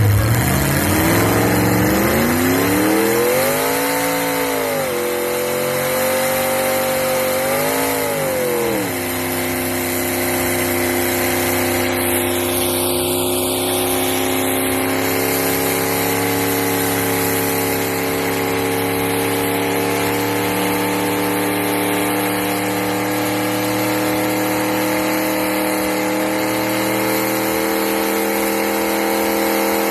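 Turbocharged car engine revved twice, rising and falling in pitch about four and eight seconds in, then held at a steady speed that climbs slowly.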